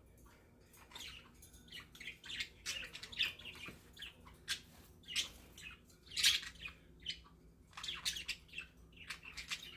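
Pet budgerigars chirping and chattering in short, irregular high calls, with one louder call a little past the middle.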